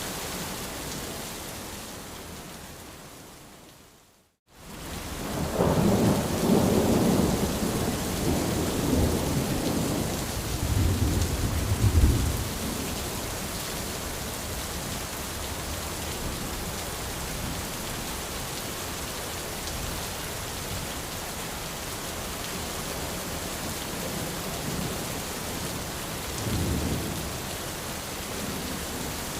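Steady rain with rolling thunder. The rain fades out to a moment of silence about four seconds in, then comes back with a long low thunder rumble that builds to its loudest about twelve seconds in, and a shorter rumble near the end.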